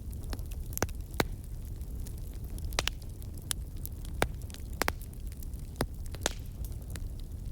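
Campfire crackling: a steady low rumble of burning with frequent sharp, irregular pops and snaps, several of them loud.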